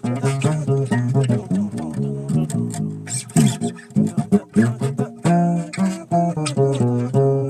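Bass guitar played live in a quick run of plucked notes and chord shapes, the notes sitting in the upper bass register.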